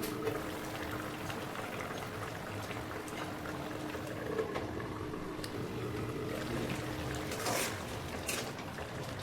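A pot of curry boiling: a steady bubbling, with a few small clicks and a slightly louder stir of bubbles about seven and a half seconds in.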